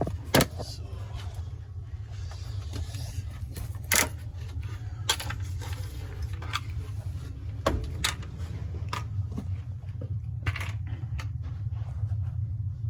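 Scattered sharp metallic clinks and knocks, like small hard objects being handled, over a steady low hum.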